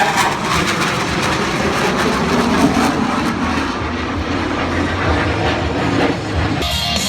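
Jet engine noise from Blue Angels F/A-18 Hornets, a loud steady rush. Music cuts in suddenly in the last half second.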